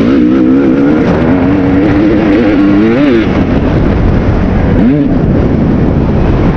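Kawasaki KX250 two-stroke dirt bike engine revving up and down while being ridden, with a constant rushing noise beneath it. The engine note rises sharply about three seconds in and again about five seconds in.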